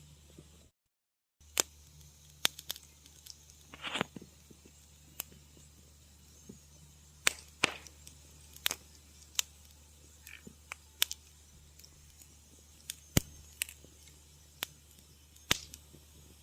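Wood fire crackling in a fireplace: sharp pops and snaps at irregular intervals, with a couple of short hisses from the burning wood, over a faint steady low hum. The sound cuts out to dead silence for under a second about a second in.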